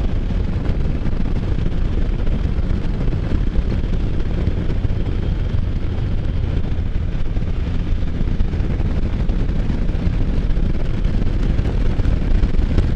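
Can-Am Spyder F3 three-wheeler cruising: a steady engine and road drone under heavy wind buffeting on the microphone, getting slightly louder near the end.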